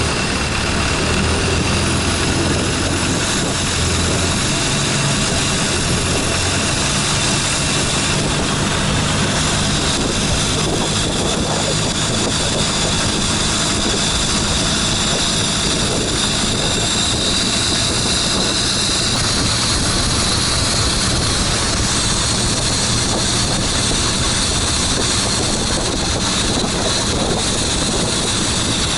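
Motorboat engine running steadily under way, heard from on board: a constant low engine hum under a loud rushing noise of wind and water.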